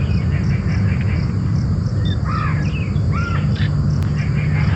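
A bird calling twice, about two and three seconds in, over a steady low rumble.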